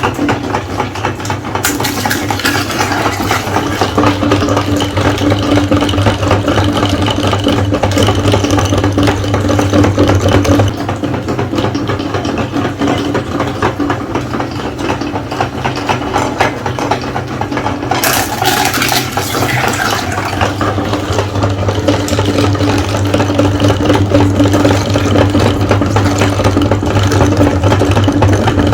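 Electric meat grinder running with a steady motor hum and rattle, with two louder, noisier stretches.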